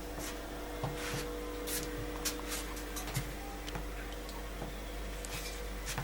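Irregular small clicks and short hissy ticks over a steady low electrical hum.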